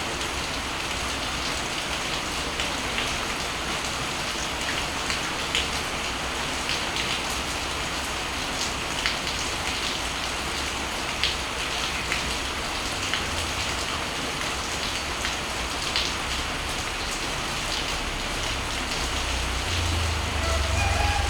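Steady rain falling on surfaces, with individual drops tapping sharply now and then. A low rumble swells near the end.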